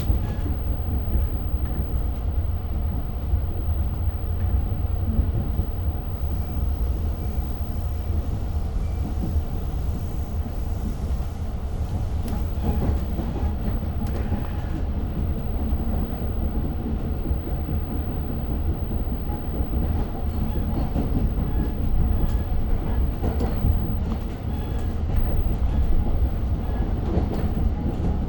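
Long Island Rail Road passenger train running between stations, heard from on board: a steady deep rumble of the car and wheels on the track, with scattered light clicks.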